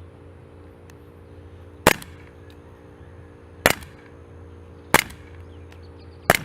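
Four single shots from a Colt 1911 replica pellet pistol, each a short, sharp crack, spaced about one and a half seconds apart.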